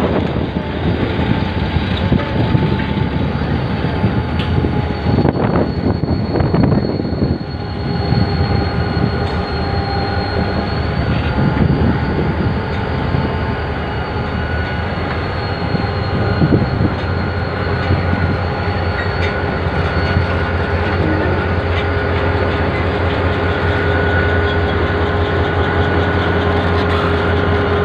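Railway coaches rolling slowly along yard track, their wheels rumbling, with a few clacks and thin steady squeal tones. In the last third, a diesel shunting locomotive's engine hum builds as the locomotive comes past.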